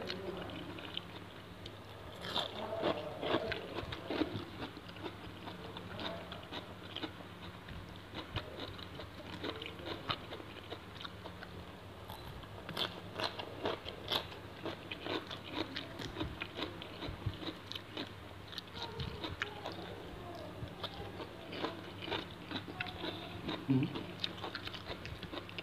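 Close-up chewing and crunching of raw shrimp in fish sauce with crisp raw vegetable slices: irregular wet crunches and clicks, thickest about halfway through and again near the end. A faint steady low hum runs underneath.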